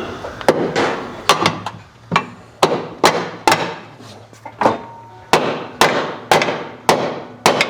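Hand hammer striking metal on a car's damaged rear suspension, a sharp blow about twice a second, each one ringing briefly.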